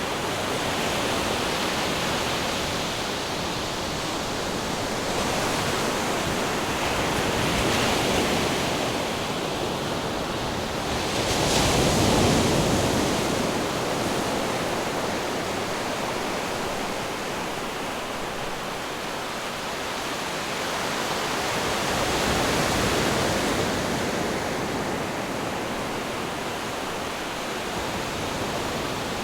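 Ocean surf and wind: a steady, dense rushing noise that swells and eases every few seconds, loudest about twelve seconds in.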